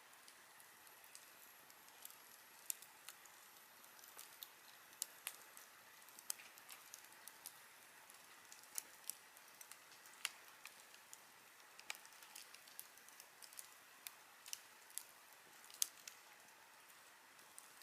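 Wood campfire crackling: irregular sharp pops and snaps, some close together and some a second or more apart, over a faint soft hiss. A thin high whistle sounds faintly for a few seconds near the start.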